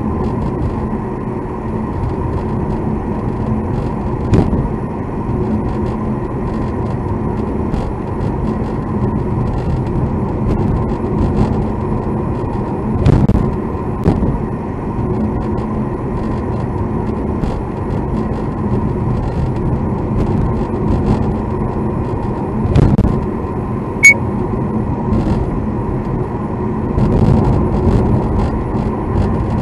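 Road and engine noise inside a moving car's cabin, with a faint steady whine, broken by a few short knocks or clunks, the sharpest a click about 24 seconds in. These are the abnormal noises the car was recorded for.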